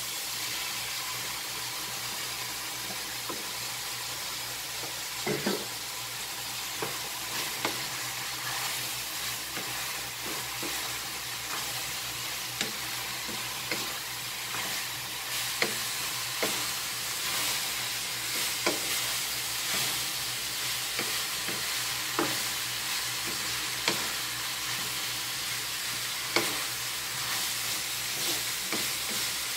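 Sliced hotdogs and ground meat sizzling in a nonstick wok, with a wooden spatula stirring and knocking irregularly against the pan.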